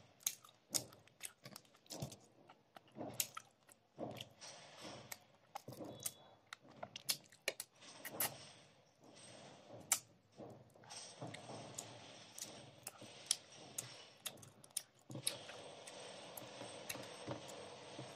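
Close-miked chewing of a mouthful of rice and fish curry, with many sharp wet smacks and mouth clicks. In the later part the clicks thin out into a steadier soft rustle.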